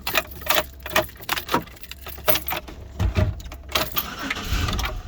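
A bunch of car keys jangling at the ignition of a 2004 Pontiac Aztek, with a steady low hum under it. There is a low rumble about three seconds in and again near the end.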